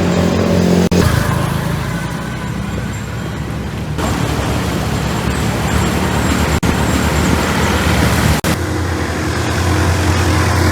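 Suzuki Skydrive 125 scooter's single-cylinder engine running while riding, over a steady rush of wind and road noise. The engine note changes abruptly a few times where short clips are joined.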